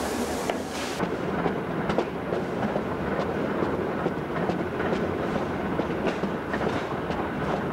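Rail vehicle running along the track, heard from on board: a steady rumble with irregular clacks of the wheels over rail joints. A hiss cuts off about a second in.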